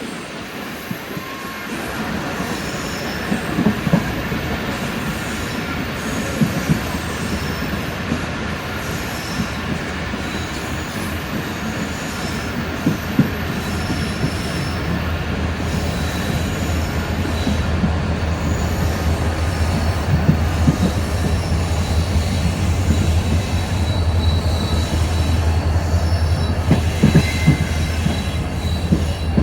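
Passenger train behind a diesel locomotive running along the track: a steady rumble of wheels on rail with scattered sharp knocks and clanks. A low steady drone grows stronger from about halfway through.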